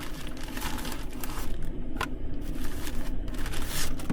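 Rustling, crinkling and scraping as food and packaging are handled during cooking prep, with a sharp click about two seconds in, over a steady low hum.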